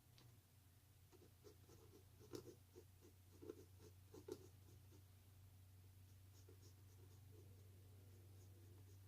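Faint scratching strokes of drawing on paper, a quick run of short strokes followed by lighter ones, over a steady low hum.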